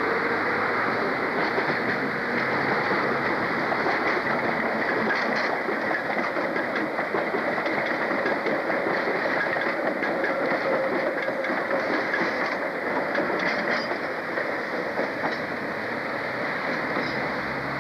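A train running on the rails: a steady running noise with many scattered clicks from the wheels on the track.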